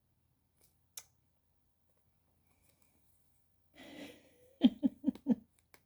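A person's breathy exhale followed by a short chuckle of four quick voiced breaths near the end, after a single faint click about a second in.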